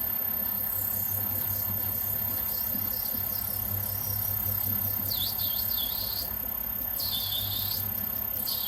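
Myford Super 7B lathe running with a steady hum while the cutting tool squeals against the workpiece in short high-pitched bursts, several times from about halfway through.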